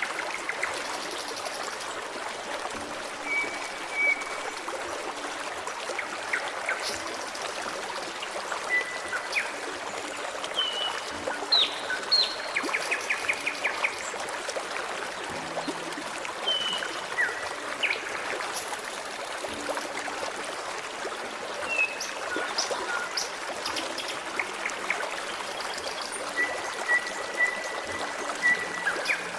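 A forest stream flowing and trickling steadily, with birds calling over it: short chirps and whistles throughout, a rapid trill about twelve seconds in, and a long, steady whistled note near the end.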